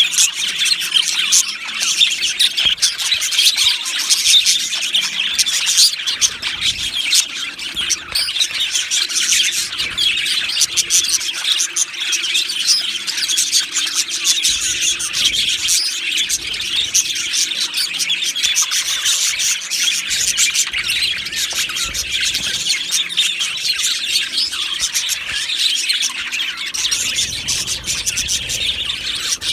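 A colony of budgerigars chirping and warbling together, with many overlapping calls at once.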